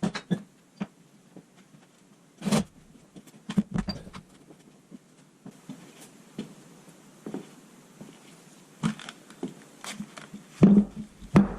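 Scattered knocks and clicks of metal tools and car parts being handled, with a pair of louder knocks near the end.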